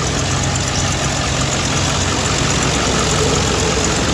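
A first-generation Dodge pickup's gasoline engine idling steadily, just after a jump start.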